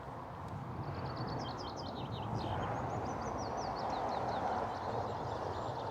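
A small songbird singing two quick phrases of short down-slurred notes, over a steady rushing noise.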